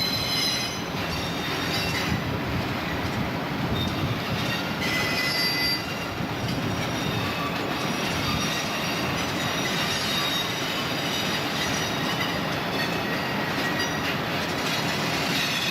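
Freight train cars rolling past with a steady rumble of steel wheels on rail, and high thin wheel squeals that come and go several times.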